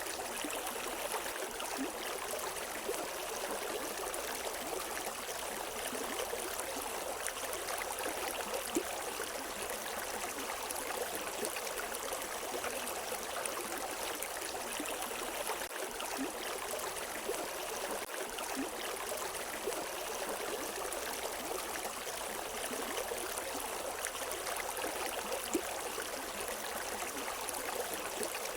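River water running steadily over rocks in a continuous rushing, with small splashes here and there.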